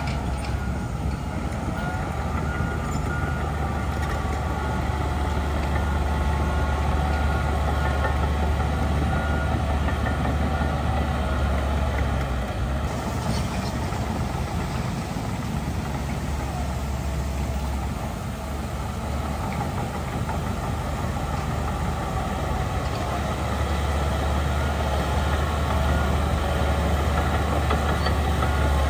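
Heavy diesel earthmoving machinery running steadily on a land-fill site, with a deep engine hum. The engine note eases slightly about two-thirds of the way through and then builds again.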